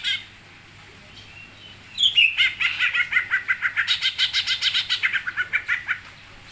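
A songbird calling briefly, then singing a fast chattering trill of rapidly repeated high notes, about nine a second, for about four seconds.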